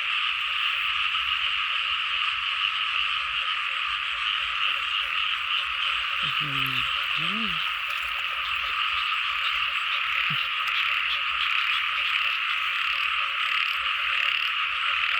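Dense, steady chorus of frogs calling in flooded rice fields on a rainy night. A couple of short, low calls that bend in pitch come through about halfway, and there is a single faint tick a few seconds later.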